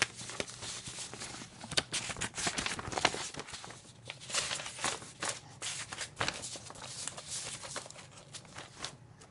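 Computer keyboard typing: rapid, irregular keystroke clicks with short pauses between bursts.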